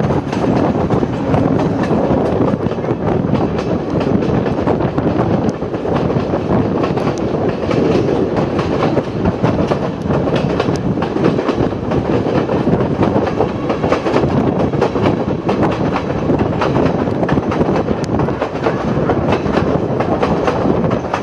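Sri Lanka Railways passenger train running along the track, heard at an open carriage window: a steady rumble of wheels on rails with a constant run of clicks and rattles.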